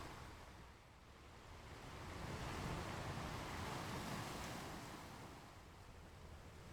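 Ocean waves washing onto a beach: one wave swells in about two seconds in and draws back toward the end.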